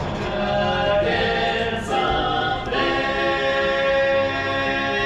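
Choral singing: several voices holding long chords, which change about a second in and again near three seconds.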